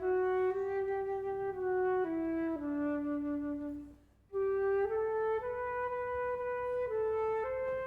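A solo wind instrument with a flute-like tone plays a slow melody of held notes, with a short break between phrases about four seconds in.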